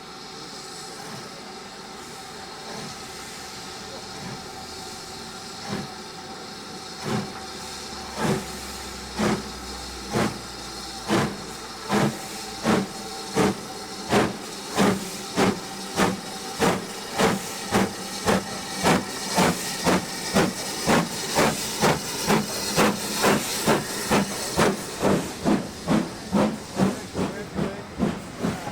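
Steam locomotive pulling away: a steady hiss of steam, then exhaust beats from the chimney start about six seconds in, slow and widely spaced, and quicken steadily to two or three beats a second as the engine gathers speed.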